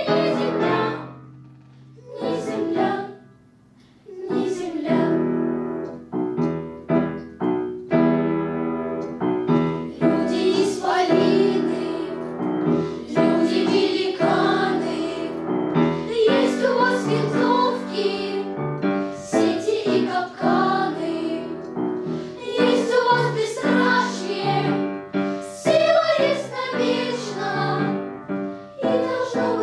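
Children's choir singing a song to piano accompaniment. The music drops away twice in the first few seconds, then the singing carries on in continuous phrases.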